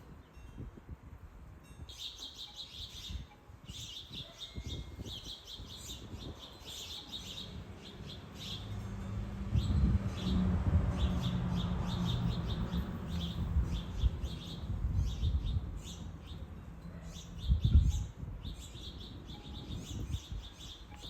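Small songbirds at backyard feeders chirping in quick, continuous bursts, with wind rumbling on the microphone. A low steady hum swells through the middle and fades, and a brief low thump comes near the end.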